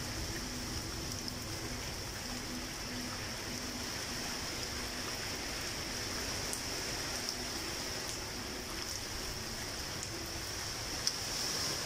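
Steady rain falling, a continuous even hiss, with a few faint drip ticks and one sharper tick near the end.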